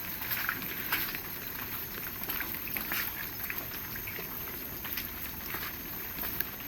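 Heavy rain falling: a steady hiss with many single drops tapping irregularly.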